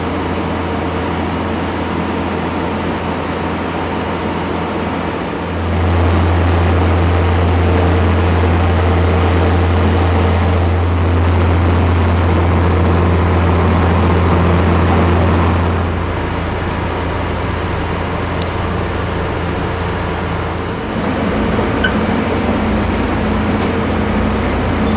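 Steady low hum of an idling train standing at the platform. It grows louder about five seconds in and eases back about ten seconds later.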